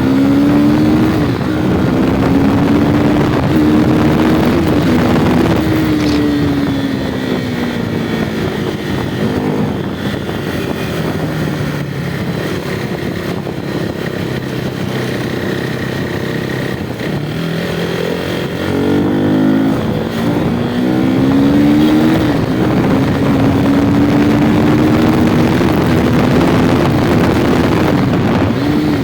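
Sport motorcycle engine running while being ridden. Its revs ease down over several seconds and stay low for a while, then climb again as it accelerates, and hold steady near the end.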